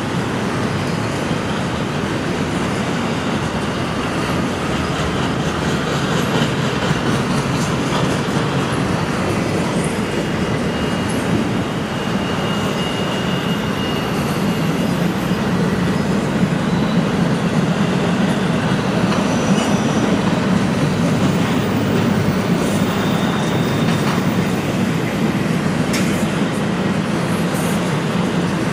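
Double-stack container well cars of a freight train rolling past with a steady rumble of steel wheels on rail. Faint high wheel squeals come and go, and there are occasional sharp clicks. The rumble grows slightly louder partway through.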